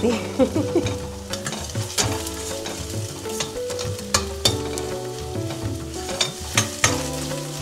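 Onions and ginger-garlic paste sizzling in oil and butter in a stainless steel pressure pan. A metal spoon stirs them, scraping and clicking against the pan again and again.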